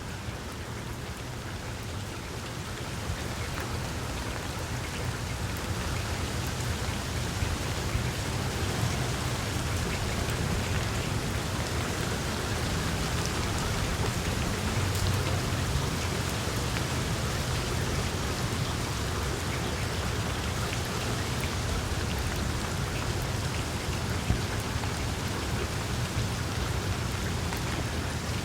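Gentle rain falling steadily, with a low rumble underneath. It grows a little louder over the first few seconds, then stays even.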